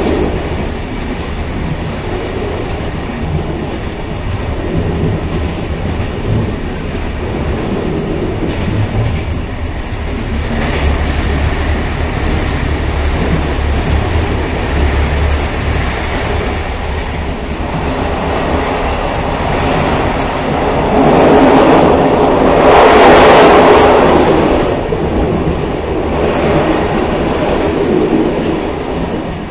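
Railcar running on the rails: a steady rumble with a low hum and some clickety-clack from the wheels. The sound swells louder for a few seconds about three-quarters of the way through, then settles back.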